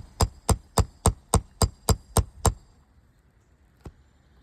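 Roofing hammer striking a steel nail puller to work it under a roofing nail in an asphalt shingle: about ten quick, even, metallic strikes at roughly four a second that stop about two and a half seconds in. A single faint click follows near the end.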